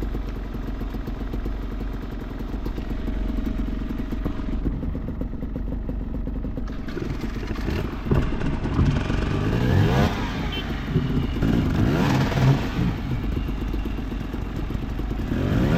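Enduro dirt bike engine running, then revved hard in several short bursts from about eight seconds in, each rising sharply in pitch. The bike is stuck on a slippery climb while others push it.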